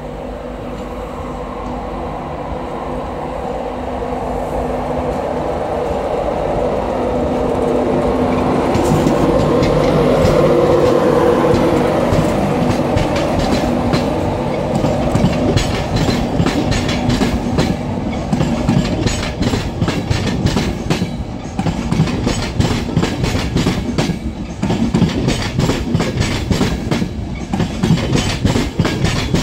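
Class 91 electric locomotive hauling Mk4 coaches, approaching and passing close by. Its hum builds to a peak about ten seconds in, then gives way to a rapid, uneven clatter of wheels clicking over the points and rail joints as the coaches run past.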